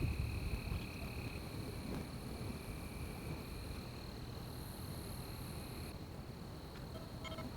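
Night insects singing in a forest: one steady high-pitched drone, with a second, lower trill that starts and stops every second or two, over a low rumble. A brief higher call sounds near the end.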